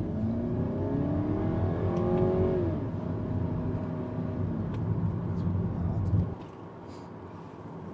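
Seat Leon Cupra's turbocharged four-cylinder engine accelerating, heard from inside the cabin. The revs climb for nearly three seconds, drop sharply at an upshift, then hold steady. The sound goes quieter about six seconds in.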